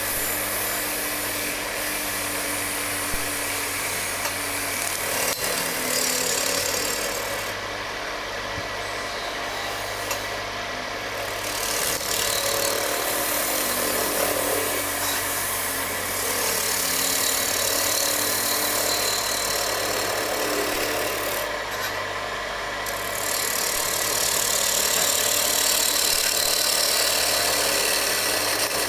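Wood lathe running with a steady motor hum while a cutting tool shaves the spinning wooden shovel handle. The cutting noise comes and goes, easing off briefly a few times.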